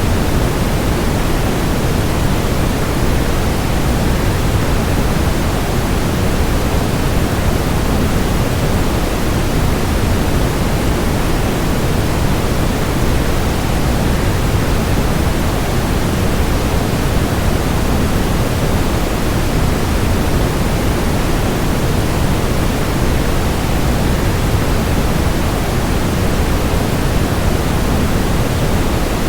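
Waterfall's steady rush of falling water, deep and unchanging, with no breaks or separate splashes.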